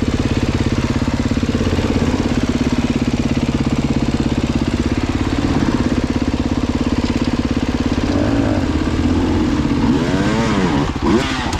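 Dirt bike engine running at low, steady revs in a fast even chug, then revved up and down several times in quick blips over the last few seconds.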